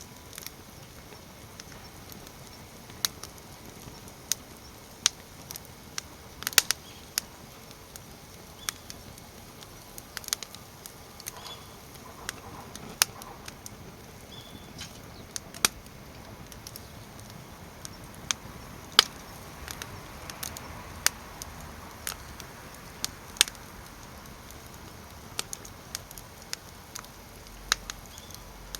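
Firewood burning in a fire pit, crackling with irregular sharp pops every second or two over a low steady hiss.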